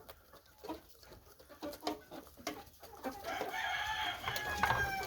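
Chickens clucking with scattered short clicks, then a rooster crowing for about two seconds near the end.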